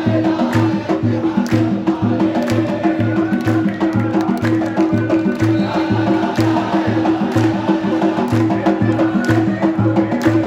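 Supporters' drums beating a steady rhythm of about two strokes a second, with sharp clacking strikes between the beats and a sustained tone held underneath.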